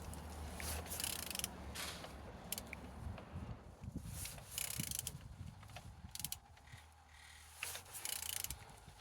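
Z18XER 1.8-litre four-cylinder petrol engine being turned over by hand with a tool on the crankshaft, giving faint irregular short bursts of clicking and mechanical turning noise. It turns freely, a sign the engine is not seized.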